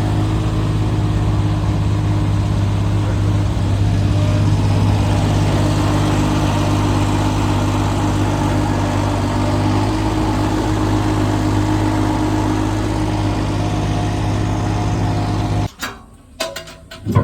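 An engine running steadily at an even speed, then stopping abruptly near the end, followed by a few sharp knocks.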